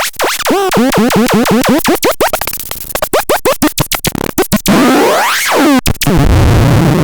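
Megastron Scrapton S1 making electronic sounds: rapid repeating pitch swoops, about five a second, give way to fast irregular chirps and clicks. About five seconds in comes a long sweep that rises and falls, and a loud harsh buzz follows near the end.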